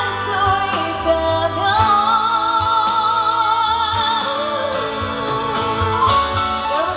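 A woman singing a ballad live over band backing music, holding long notes with a wide vibrato, with a rising run near the end.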